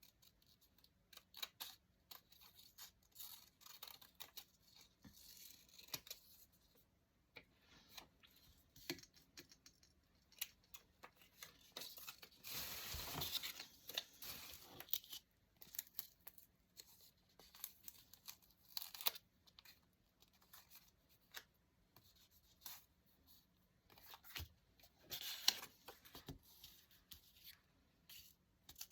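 Paper being handled and torn close to the microphone: scattered soft rustles and taps, with one longer tear about twelve seconds in and a shorter one near the end.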